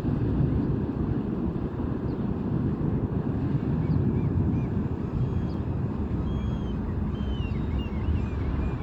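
Steady low rumble of a container ship's engine mixed with wind on the microphone. Small birds chirp in short high calls from about halfway through.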